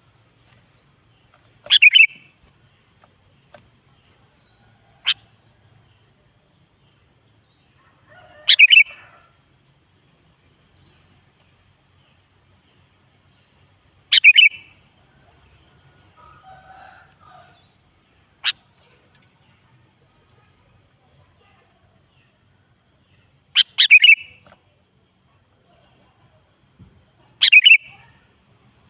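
Sooty-headed bulbul singing: five loud, short, bubbly phrases spaced several seconds apart, with two sharp single notes and fainter high trills in between.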